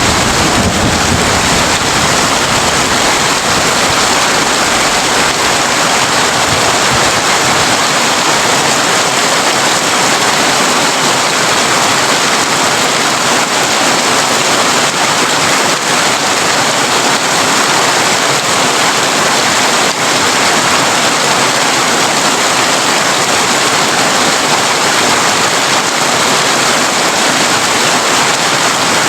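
Heavy rain drumming steadily on a tin roof, a dense, even hiss-like patter. A low rumble of thunder dies away over the first several seconds.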